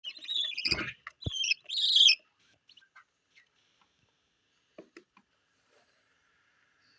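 Budgerigars calling: three loud, harsh chirps in the first two seconds, then only a few faint scattered clicks and peeps.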